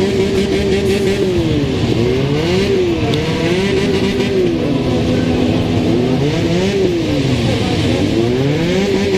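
Motorcycle engine running under way, its pitch dropping and climbing again several times as the throttle is rolled off and opened.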